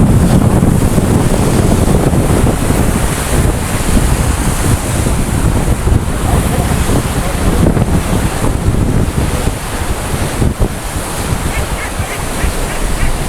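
Sea waves washing in below a pier, with heavy wind buffeting the microphone.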